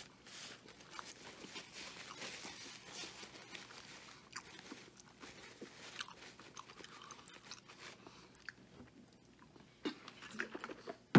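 A man biting into a triple bacon cheeseburger and chewing with his mouth open: wet, crunchy mouth sounds with the paper wrapper crinkling. Near the end he drinks from a plastic shaker bottle, and there is one sharp loud knock right at the end.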